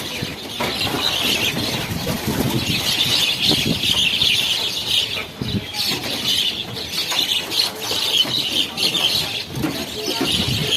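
A large flock of birds calling all at once: a dense, unbroken chatter of many overlapping high chirps.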